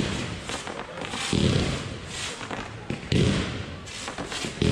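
F2-category (consumer-grade) fireworks going off in a rapid display: a run of launches and bursts with dense fizzing and crackle, and heavier thumps about one and a half seconds in, about three seconds in and again at the end.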